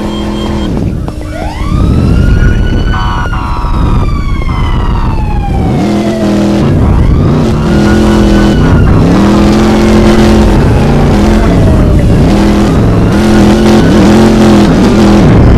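A car engine revved again and again in short blips, each rising and falling within about a second. Over it a siren wails, climbing quickly and sliding slowly down, about three times.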